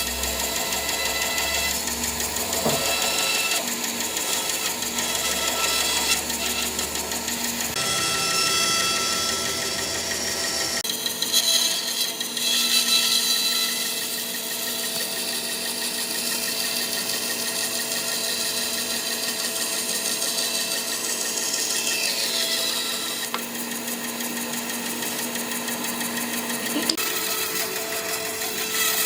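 Handheld electric power tool running steadily, with a whine of several fixed tones over a grinding hiss, working wood; its tone shifts a little about a third of the way in.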